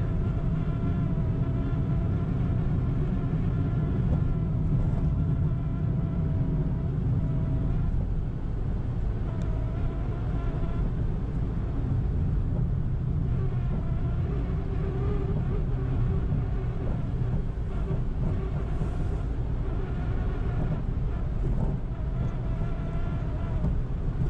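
A car running on the road: a steady low rumble of engine and road noise, with an engine hum that slowly rises and falls in pitch.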